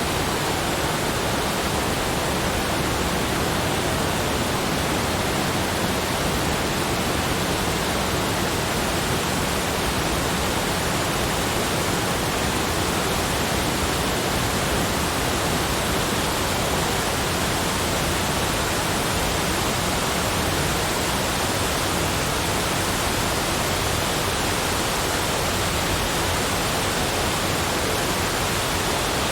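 Steady, even rushing noise that spreads from low to high pitches and never changes, with no separate sounds in it.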